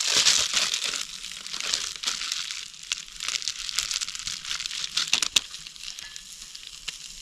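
Crinkling and rustling as food packaging is handled, loudest in about the first second and then thinning to scattered crackles, with a few sharp clicks about five seconds in.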